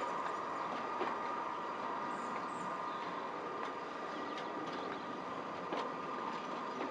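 Green Southern Region slam-door electric multiple-unit coaches, the 3-CIG unit, rolling past at low speed: a steady rumble of wheels on rail with a constant high whine and a few sharp clicks from the wheels.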